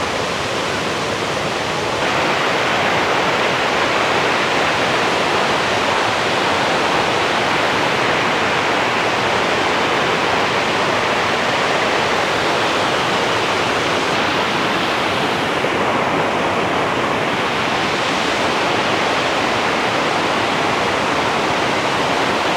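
Cane Creek Cascades rushing steadily over rock, a loud, even roar of whitewater swollen by heavy rain. It grows louder about two seconds in.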